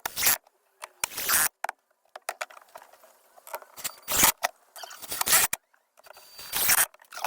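A string of short, loud bursts of building noise, each cut off sharply with silence between them, from fitting wooden decking and paneling.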